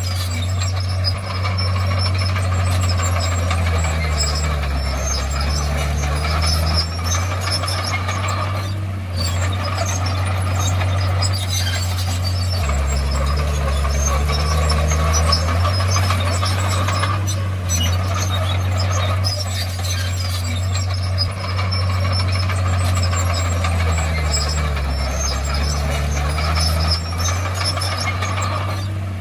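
Crawler bulldozer's diesel engine running steadily, its note dropping in pitch three times for a few seconds, with high metallic squealing from the tracks.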